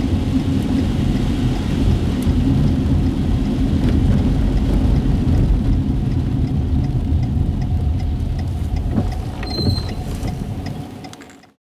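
Inside a car driving on wet city streets: a steady low road-and-engine rumble with tyre hiss and scattered light ticks, and a brief high squeak about ten seconds in. The sound fades out near the end.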